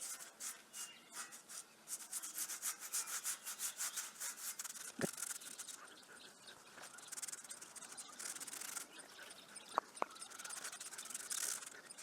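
Wax being rubbed onto a cast iron door grid in quick back-and-forth scratchy strokes, then steadier rubbing, with a sharp click about five seconds in and two more near ten seconds.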